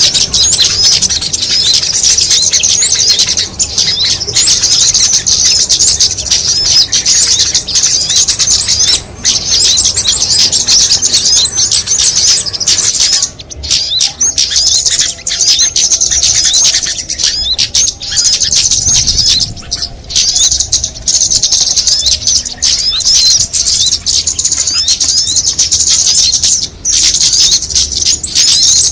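Dense, continuous high-pitched chirping and twittering of many small songbirds layered together, a bird-lure mix for calling small birds in, with brief thinner gaps along the way.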